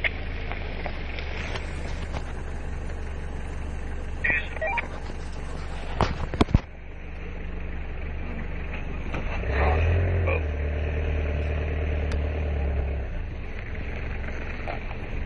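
Four-wheel-drive engine running steadily at low revs, with a few sharp knocks about six seconds in. About nine and a half seconds in the engine note rises and holds louder for a few seconds as a 4WD crawls up a rocky, rutted track, then settles again.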